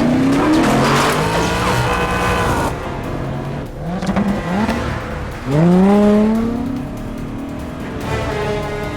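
High-performance sports car engines revving and accelerating hard, their pitch rising several times, with the biggest surge about five and a half seconds in, over an orchestral film score.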